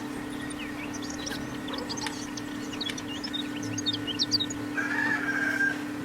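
Birds chirping in quick short calls over a steady low hum, with a louder held call about five seconds in.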